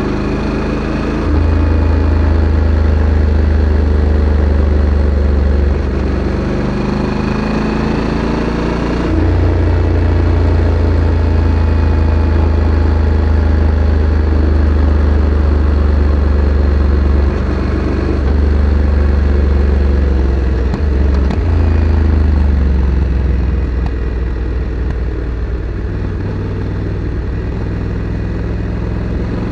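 Honda Africa Twin CRF1100 DCT's 1084 cc parallel-twin engine running through its factory exhaust while riding, the engine note rising and falling with the throttle. It rises again near the end.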